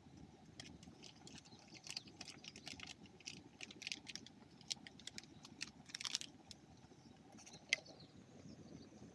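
Rain falling steadily on the tent, with scattered sharp ticks and crackles.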